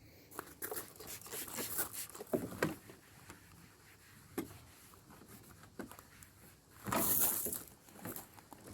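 Scattered light taps, rubs and scrapes of hands and a cloth working over a lawn tractor, with one louder hiss about half a second long some seven seconds in.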